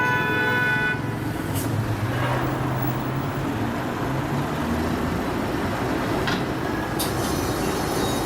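Steady street traffic noise with a low hum, over which a held tone of several notes cuts off about a second in; a few sharp clicks follow, and faint high steady tones come in near the end.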